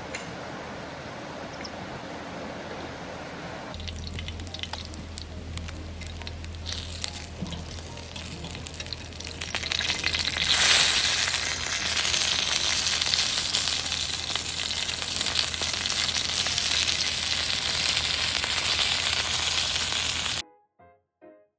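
Food sizzling and crackling as it fries in a pan, growing much louder and denser about ten seconds in. It cuts off suddenly near the end and music begins.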